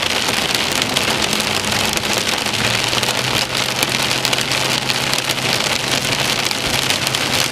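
Heavy rain pelting the windshield and roof of a moving car, heard from inside the cabin as a dense patter of drops. Under it runs a steady low hum from the car, which grows stronger about two and a half seconds in.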